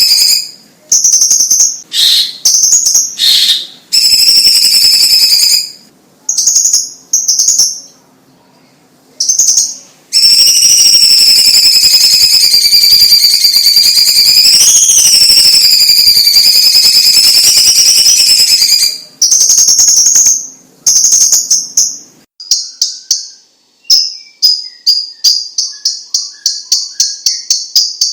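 Cucak ijo cina (cucak cungkok) leafbird singing loudly in clear, high whistled phrases: short notes with pauses, then a long unbroken warbling phrase for about nine seconds, then a quick series of repeated chips near the end.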